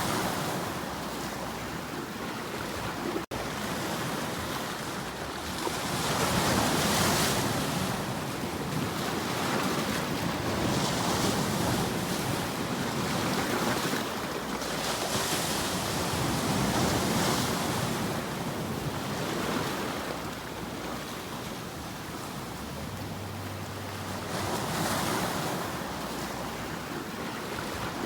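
Ocean surf: waves breaking and washing in, swelling and fading every few seconds, with a brief dropout about three seconds in.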